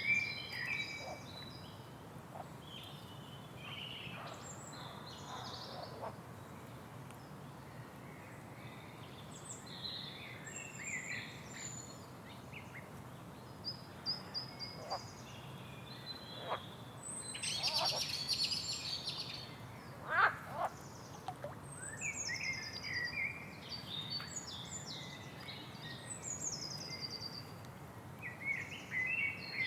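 Several birds singing and calling, a busy mix of chirps, trills and short falling whistles, over a steady low background noise.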